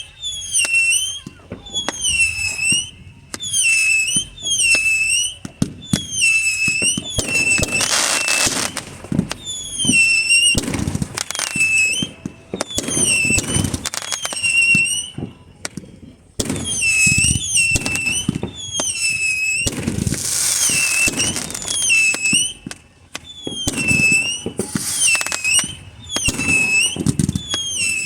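Fireworks going off: a long series of short whistling chirps, each dipping and then rising in pitch, about one to two a second. Under them run crackling and low booms.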